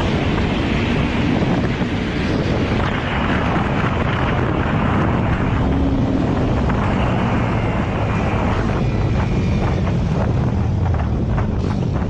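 An engine running steadily and loudly, with wind buffeting the microphone.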